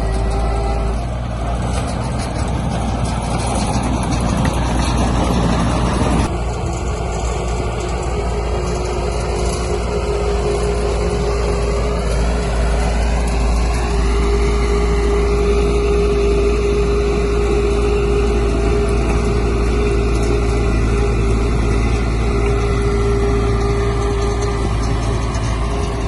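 Heavy diesel construction machinery, a bulldozer and dump truck, running steadily under load. About six seconds in, a swell of rushing noise cuts off sharply. Later the engine pitch rises briefly.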